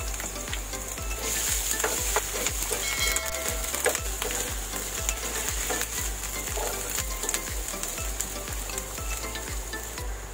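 Minced garlic sizzling in hot oil in a nonstick frying pan while a spatula stirs and scrapes it. The sizzle grows louder about a second in. A soft low music beat runs underneath.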